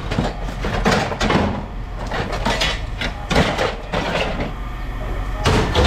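Pieces of scrap metal clanking and knocking together as they are handled and sorted, with a run of hard metallic hits near the end.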